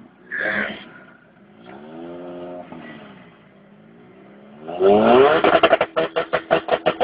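Car engines revving at a standing start, the pitch rising and falling a couple of times. Near the end one engine is revved hard and held against its rev limiter, cutting in and out in a fast, even stutter.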